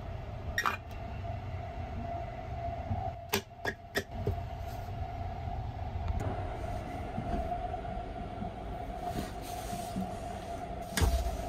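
Running noise of the Sunrise Izumo sleeper train heard inside its compartment: a steady low rumble with a constant hum. A few sharp clicks cut through, three in quick succession about three to four seconds in and another near the end.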